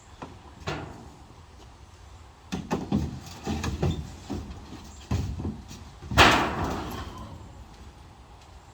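A run of knocks and clunks, then one loud bang about six seconds in that rings on briefly.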